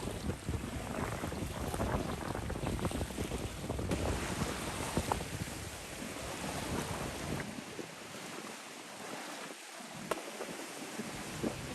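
Wind buffeting the microphone with a gusty low rumble over a steady hiss of water. The rumble eases off after about seven seconds.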